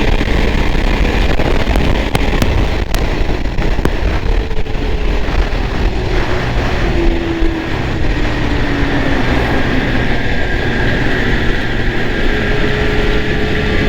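Arctic Cat Thundercat snowmobile running at speed on a straightaway, its engine note easing down and holding steady, with heavy wind noise on the microphone and a few sharp clicks about two to three seconds in.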